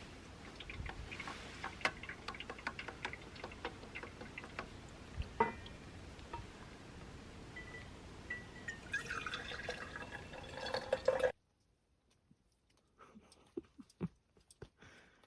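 Liquid dripping and trickling, with many small clicks, then a denser pouring sound near the end that cuts off abruptly. A few faint clicks follow.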